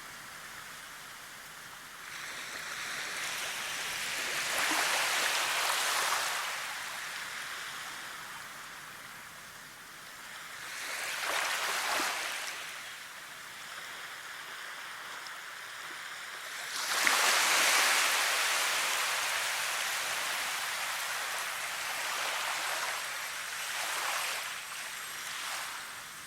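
Rushing water that swells and fades four times, the loudest swell coming in suddenly partway through.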